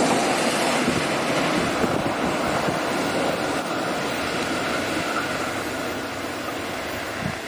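Container freight train's wagons rolling along the track in a steady rumble, fading gradually as the end of the train draws away.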